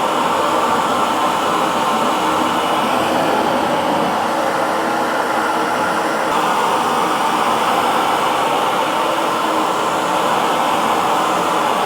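Hair dryer running steadily, an even blowing noise with a faint motor hum.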